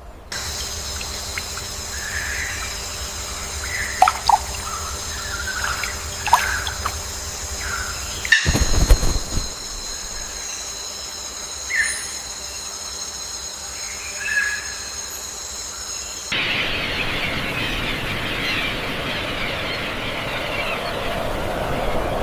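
Scattered short bird calls over a steady high-pitched whine. After a sudden cut about two-thirds of the way through, this gives way to an even, rushing hiss.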